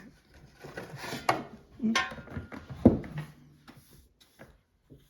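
Knocks and scrapes of wood being handled in a fireplace while a fire is lit: a series of sharp knocks, the loudest about three seconds in, then quieter taps.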